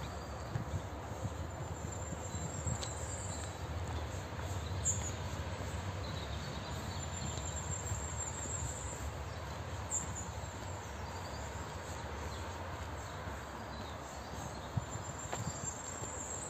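Birds singing: thin, very high trilling phrases, each a second or two long, recurring every few seconds over a low steady rumble.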